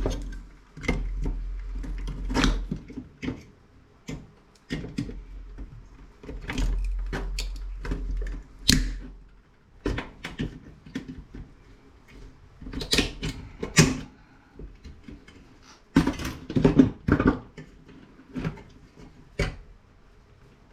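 Irregular clicks, knocks and clatters of hand tools and metal parts being handled while an aluminium heat sink is worked loose from a circuit board, with a few louder clusters of sharp knocks.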